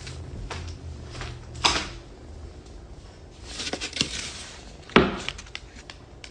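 A few scattered sharp knocks and clatters, the loudest about a second and a half in and near the end, with a rustling swell between them.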